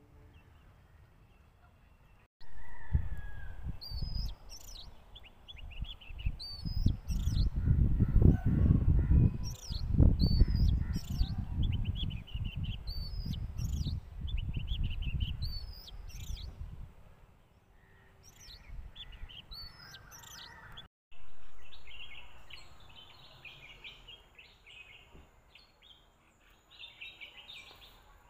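Birds calling outdoors. A short high call repeats about once a second over a loud, uneven low rumble for the first half. After a break about two-thirds of the way through, a busier, lower chirping takes over.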